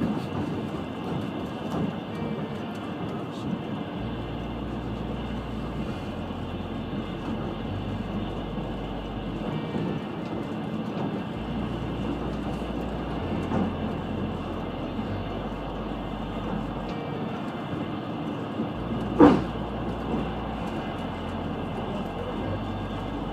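Steady running rumble of a Trans-Siberian Railway passenger carriage heard from inside, with one sharp knock about nineteen seconds in.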